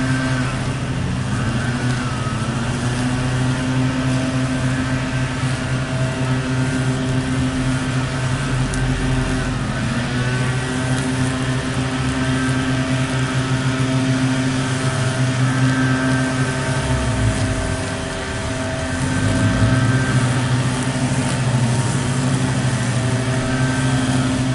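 Small electric motor of a homemade model tractor and chaff cutter, running steadily with a hum. About seventeen seconds in, it slows briefly, then picks back up to speed.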